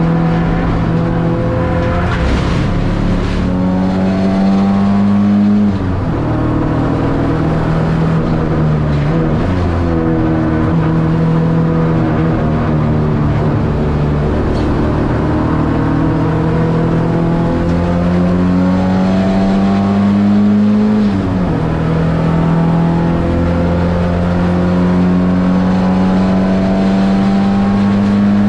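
Ford Escort XR3 race car's CVH four-cylinder engine, heard from inside the cabin, running hard under acceleration. Its pitch climbs steadily and drops sharply at upshifts, about six seconds in and again about twenty-one seconds in.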